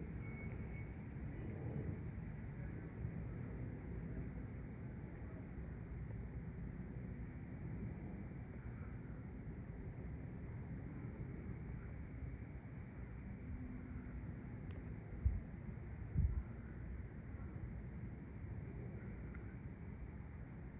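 Crickets chirping steadily, about two chirps a second, over a low continuous rumble. Two short thumps come about a second apart near three-quarters of the way through.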